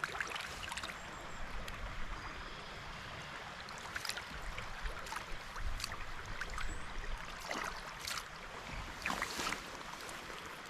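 Small stream water running steadily, with several brief sharp sounds scattered through it.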